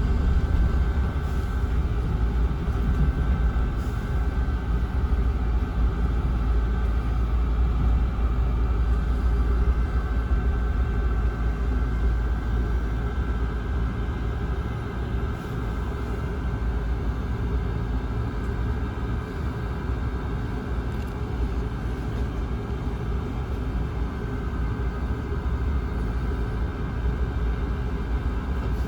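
Mercedes-Benz O307 bus under way: a steady, deep engine and road rumble heard from inside the passenger cabin.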